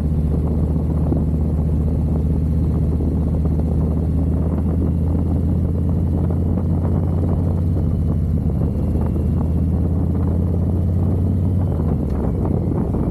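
Harley-Davidson V-twin motorcycle engine running at a steady cruise, a low even drone that eases off slightly near the end.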